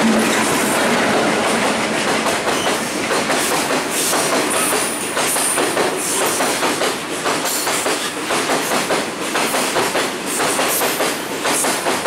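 Stone-laden open-top freight wagons rolling past at speed, their wheels clacking over the rail joints in a steady clickety-clack over a continuous rumble and rattle.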